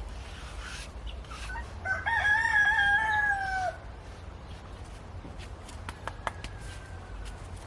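A rooster crowing once, a single call of nearly two seconds starting about two seconds in and dropping in pitch at the end. A few sharp clicks follow around six seconds in.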